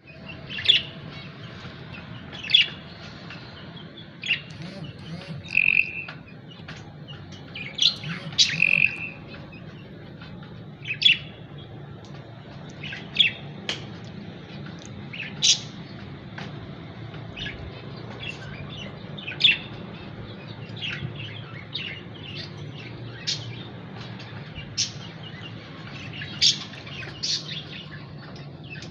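Lovebirds chirping: short, sharp, high calls every second or two, with two brief steady whistles around six and nine seconds in, over a low steady hum.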